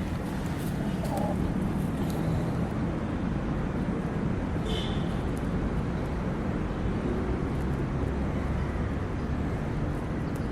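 Steady outdoor rumble of background noise, heaviest in the low end, with one short high chirp a little under five seconds in.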